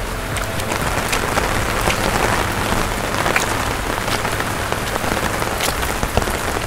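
Steady rain falling on a hard surface: a dense hiss with many distinct drops ticking through it.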